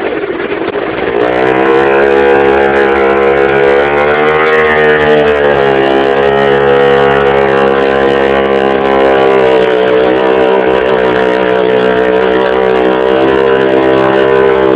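Motorcycle engine held at high revs during a burnout, its rear tyre spinning against the ground. The revs climb about a second in, dip and recover briefly around the middle, then hold steady.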